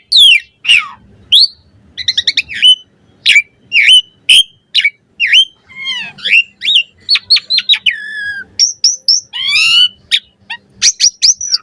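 Asian pied starling (jalak suren) singing a vigorous, varied chatter song: quick whistled notes, rapid downward-sweeping and rising glides, following one another with only short gaps.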